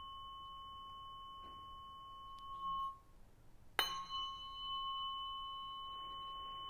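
Tuning fork ringing with a steady, pure tone. It stops short just before 3 s, is struck again a moment later, and rings on.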